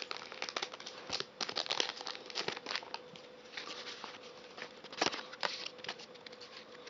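A foil Pokémon card booster pack being torn open and the cards rustled out of it: irregular crinkling, tearing and rustling of the foil wrapper.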